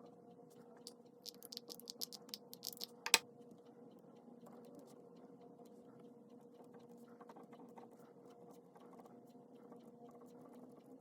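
Pen writing on paper: a run of quick, scratchy strokes for about two seconds, ending in one sharp click about three seconds in, then only faint, sparse scratching over a steady faint hum.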